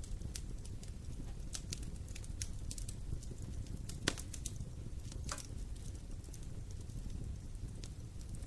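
Fire in a fireplace crackling: scattered sharp pops and clicks, two louder pops about four and five seconds in, over a steady low rumble of the flames.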